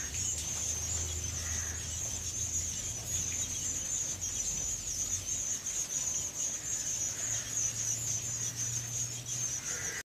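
Birds calling: a steady, high-pitched chatter throughout, with a low hum underneath for the first couple of seconds and again near the end.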